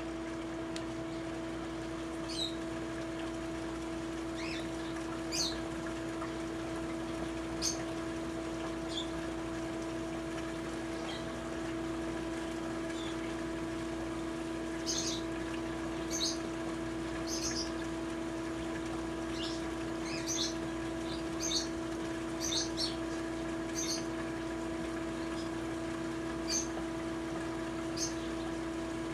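Small birds chirping in short, high calls, scattered at first and more frequent in the second half, over a steady machine hum with a few fixed tones.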